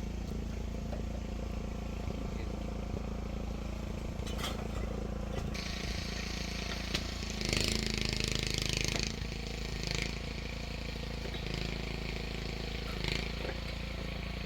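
An engine running steadily with an even hum. From about five seconds in a hissing noise joins it, loudest for a second or so near the middle, then coming back in short swells.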